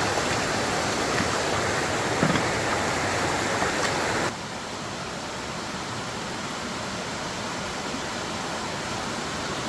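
Rushing water, a steady even hiss; it drops suddenly to a quieter level about four seconds in.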